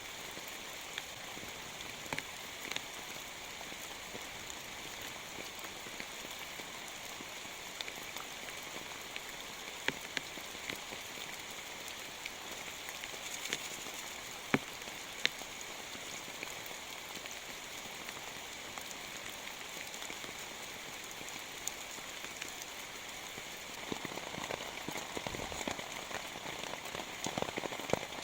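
Rain falling steadily, with scattered sharp drop impacts; the pattering grows denser and fuller near the end.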